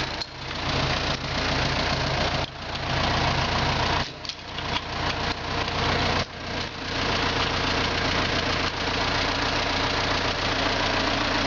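An engine running steadily, with a dense hiss over a low hum. The sound drops off suddenly for a moment three times, a little after two, four and six seconds in.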